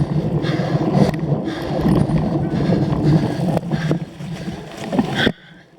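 Cyclocross bike being raced over rough ground: a steady loud rumble of tyres and wind with a regular hiss about twice a second, which drops away suddenly near the end.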